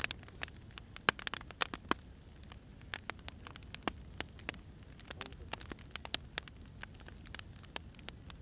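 Wood fire crackling: irregular sharp pops and snaps, several a second, over a low steady rumble of burning logs.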